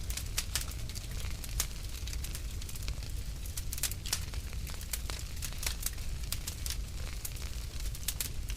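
Wood fire burning in a fireplace: irregular sharp crackles and pops several times a second over a low steady rumble of the flames.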